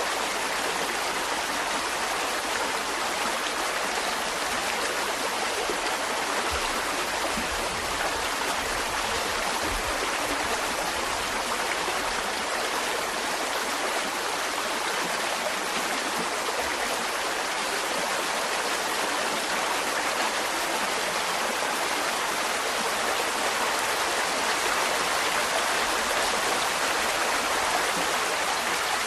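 Mountain stream flowing over rocks: a steady rush of running water.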